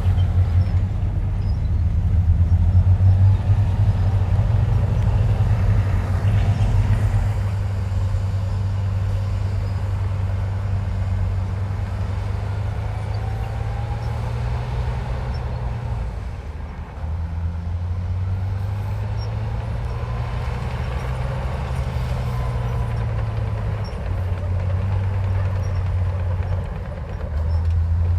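Heavy diesel engine of a bulldozer at work, a low steady hum that swells and eases as the load changes, dropping briefly about sixteen seconds in and again near the end.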